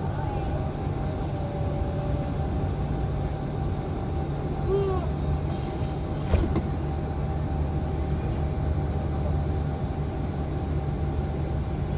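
Ferry engine running with a steady low drone, with one brief knock about six seconds in.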